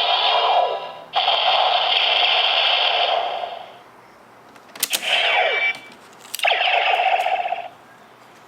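Bandai DX Neo Decade Driver toy belt playing its electronic Final Attack Ride sound effects through its small speaker: several bursts of synthesized tones with falling pitch sweeps, the last two each starting with a sharp click.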